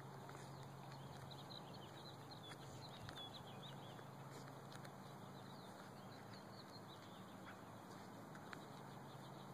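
Faint outdoor background: small birds chirping in quick runs of short high notes over a steady low hum, the chirps thinning out after about six seconds.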